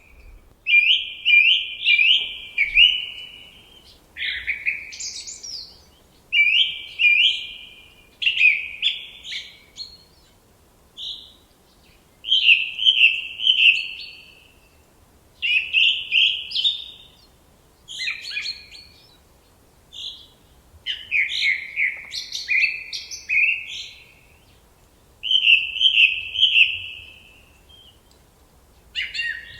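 Forest songbirds singing in short phrases of quick, high-pitched chirping notes, a new phrase every second or two with brief pauses between.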